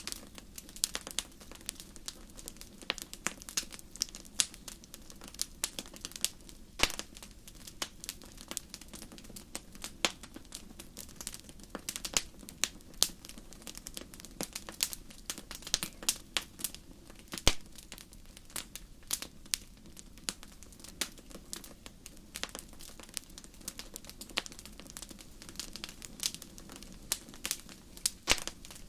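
Wood fire burning in a fireplace, crackling with frequent irregular sharp pops and snaps over a low steady hiss.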